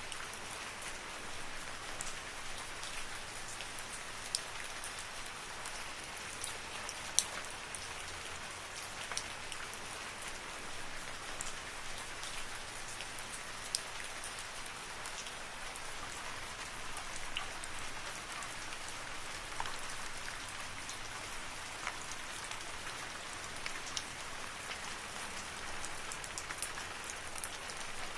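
Steady rain falling in a forest: an even hiss of rainfall with scattered single drops ticking sharply on nearby surfaces.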